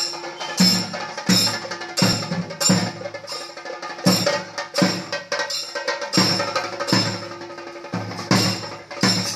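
Kerala temple percussion ensemble playing drums and cymbals in a steady beat, with a loud stroke about every 0.7 seconds.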